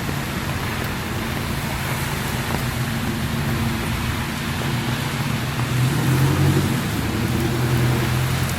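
Heavy rain falling, a steady hiss, with road traffic: a motor vehicle's engine runs close by and grows louder about six seconds in.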